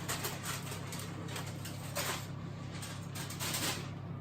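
A steady low hum, with a few short knocks and scrapes of kitchen items being handled.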